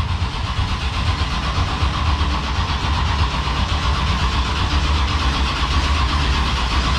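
Big-block Chevy V8 being cranked on the starter steadily for several seconds, trying to fire; the ignition timing is off because the distributor has not been set.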